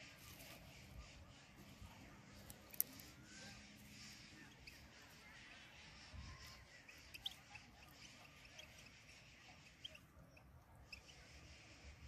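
Near silence, with a few faint, short, high bird chirps scattered through it and a single sharp click about three seconds in.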